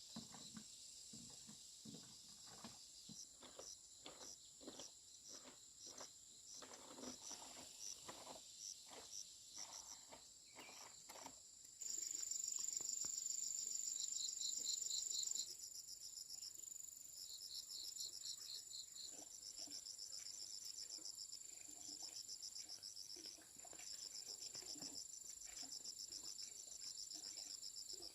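Insects chirping in high, evenly pulsed trills and a steady high buzz, which grows louder for a few seconds near the middle. Scattered rustling clicks are heard in the first half.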